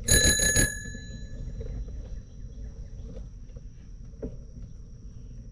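Bicycle bell rung with a quick run of three or four strikes, its ringing dying away over about a second and a half.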